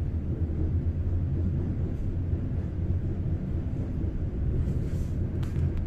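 Steady low rumble of a moving passenger train heard from inside a business-class coach, with a few light ticks near the end.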